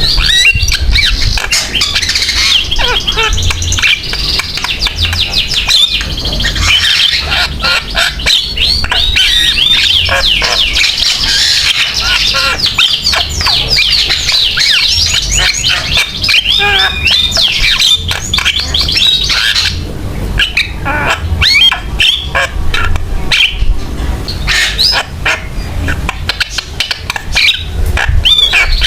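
Javan myna singing in full, lively song: a long, rapid, unbroken run of squawks, whistles and chattering notes that breaks into separate calls after about 20 seconds. A low rumble runs underneath.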